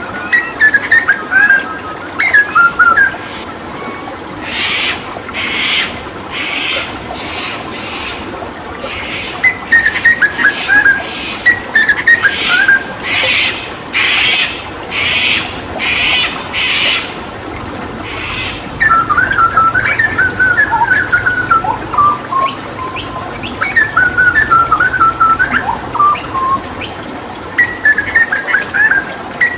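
Hooded butcherbird singing: rapid chirping, whistled phrases, with a run of about a dozen harsh rasping notes about one a second through the middle, over the steady hiss of running water.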